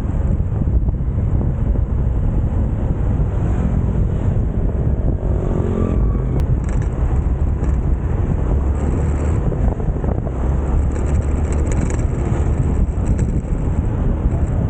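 Motorcycle on the move: heavy wind buffeting on the microphone over a steady engine and road rumble, with an engine note rising briefly about five seconds in.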